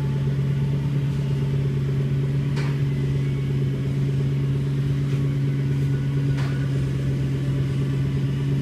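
Toyota 1UZ 4.0-litre V8 running at a steady speed, heard through an exhaust reworked with a Helmholtz resonator. The note holds at one even pitch without revving, with a few faint ticks.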